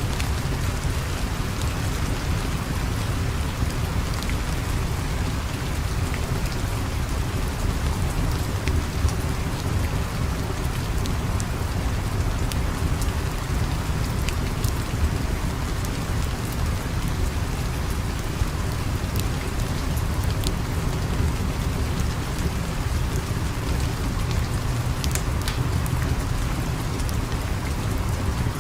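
Steady heavy rain with a low rumbling undertone and scattered sharp clicks throughout; no piano is audible.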